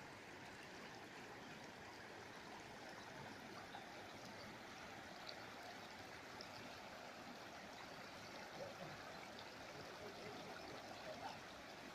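Spring water flowing steadily at a cold spring, a faint, even rushing.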